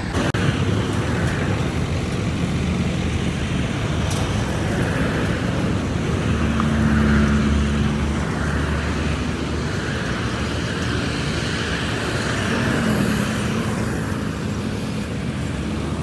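Motor vehicle engines running with road traffic passing, a steady hum that swells a little a few times.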